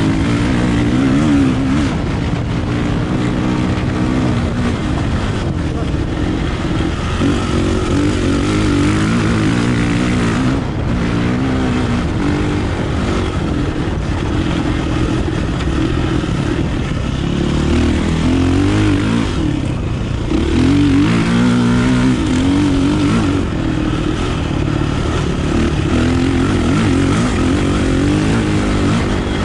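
Kawasaki KLX450R dirt bike's single-cylinder four-stroke engine being ridden, the revs repeatedly rising and falling.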